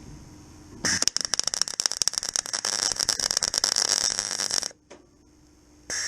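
MIG welder arc crackling and spitting in two bursts, the second about a second after the first stops, as a small steel earth-point tab is welded onto the car's floor.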